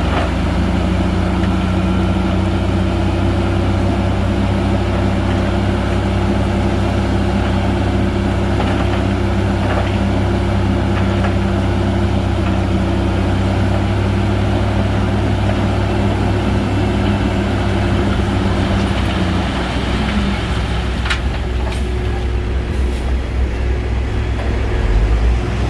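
Shantui bulldozer's diesel engine running steadily under load. About twenty seconds in its tone shifts and drops, and a couple of sharp metallic knocks follow.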